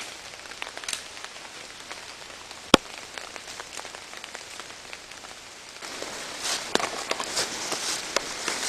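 Rain and wet snow falling steadily, with scattered drips ticking. A single sharp click comes about a third of the way in, and footsteps start near six seconds in and grow louder.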